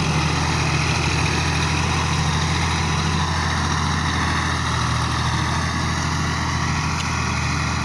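Fiat 480 tractor's diesel engine running steadily at idle.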